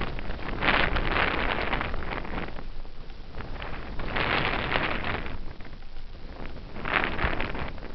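Wind rushing over a helmet-mounted camera's microphone on a bicycle coasting downhill, a steady low rumble with three surges of hiss.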